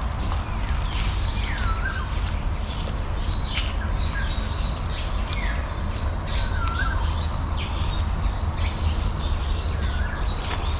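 Birds calling: short downward-gliding notes with a hooked end, one every second or two, over a steady low rumble with scattered sharp clicks.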